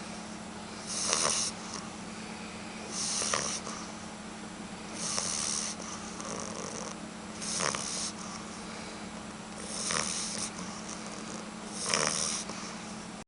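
A sleeping puppy snoring, six airy breaths about two seconds apart, over a steady low hum.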